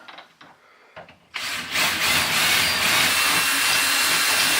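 Electric drill boring a quarter-inch hole through a block of aluminum: a few light clicks, then the drill runs steadily under load for about three and a half seconds, starting a little over a second in.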